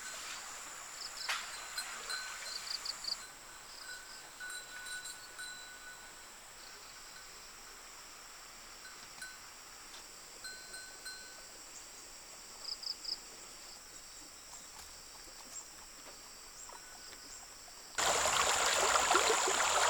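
Rural outdoor ambience: a steady high-pitched insect drone with scattered short chirps. About 18 seconds in, it cuts suddenly to louder, even rushing water.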